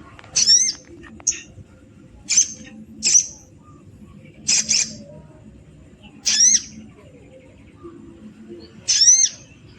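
Sogon (crested jay) giving short, sharp calls, about seven of them one to two seconds apart, some quickly doubled.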